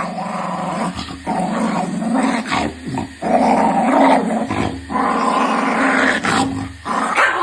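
A dog growling in a string of long, drawn-out growls, about six one after another with short breaks between them.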